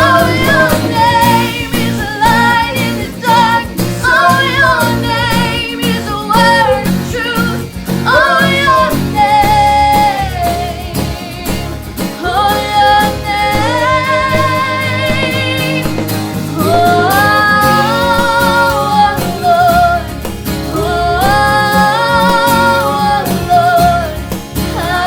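A worship song performed by a band: a sung melody with vibrato over instrumental accompaniment, including guitar.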